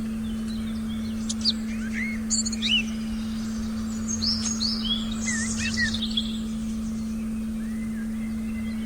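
A steady, unbroken electronic meditation tone, with forest birds chirping and calling over it for several seconds in the middle.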